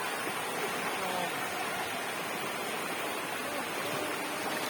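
Waterfall: a steady, even rush of falling water, heard up close.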